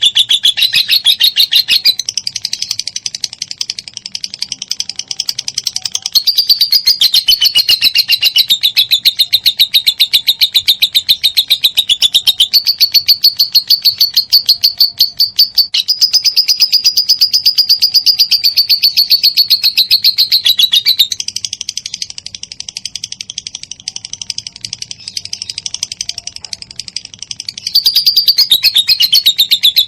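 Lovebird ngekek: a long, high, rapid chattering trill that goes on without a break, softer for a few seconds early on and again for several seconds near the end.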